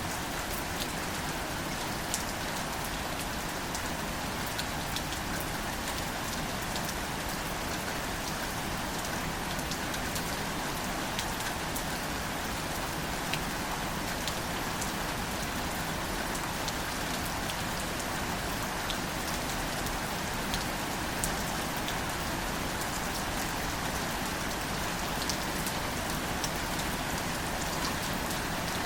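Gentle, steady rain falling on wildflowers and leafy plants, with many separate drops ticking throughout.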